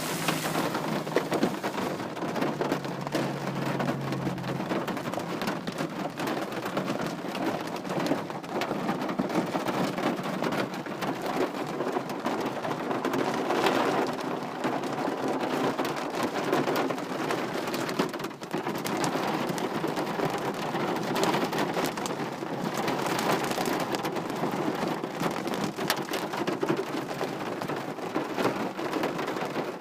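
Steady rain falling, with many individual drops striking a surface throughout.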